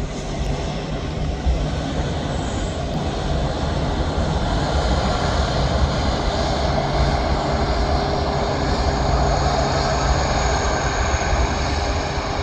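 Boeing 787-9 Dreamliner jet engines during the landing: a steady deep rumble with a high whine over it, swelling a little about halfway through.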